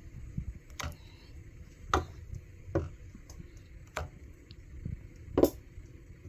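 A serving spoon knocking against a food container while food is dished into it: five sharp taps about a second apart, the last one loudest.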